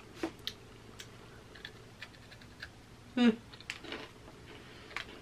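A person chewing a piece of chocolate bark with pretzel and nuts in it, giving a scatter of small, quiet crunches and clicks. Just after three seconds in there is one short, louder sound from the voice.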